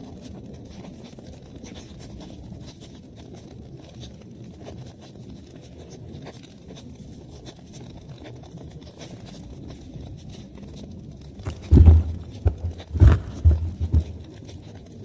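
Wood fire in a fireplace crackling over a steady low rumble. About twelve seconds in, a brief cluster of loud, low thumps.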